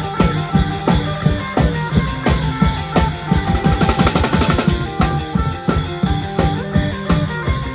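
Thai klong yao long-drum band playing: a fast, steady drum beat with a quick roll about halfway through, over a held melody.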